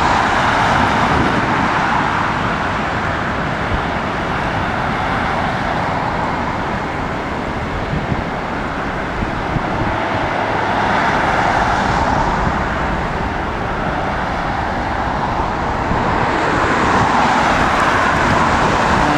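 Steady jet-engine roar from airliners taking off, swelling and easing several times, with wind buffeting the microphone.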